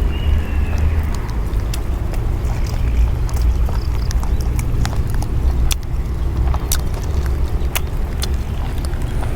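Eating sounds close to the microphone: chewing, with scattered sharp clicks over a steady low rumble.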